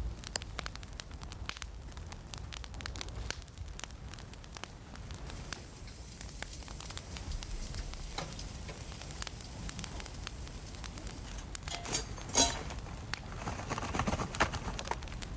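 A fire crackling and popping with irregular sharp snaps, and two louder knocks near the end.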